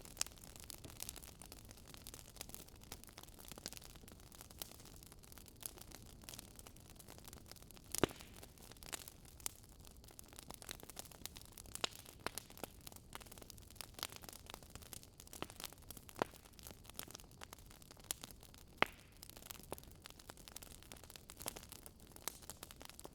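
Wood fire crackling: a steady low hiss with irregular sharp pops and snaps, a few of them louder.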